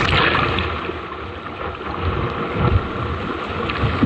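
Rushing river water around a canoe, with wind rumbling on the microphone.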